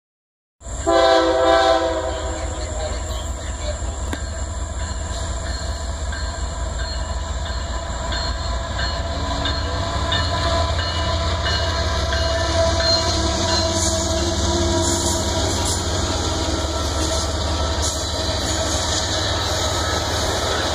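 A diesel locomotive's air horn sounds a chord about half a second in, loudest for a second or so. After it comes the steady low rumble of the approaching train's engine and wheels on the rails, slowly getting louder.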